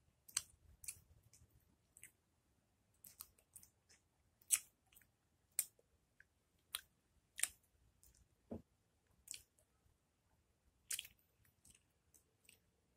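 Faint wet clicks and smacks of a mouth chewing raw lemon, irregular, roughly one every second.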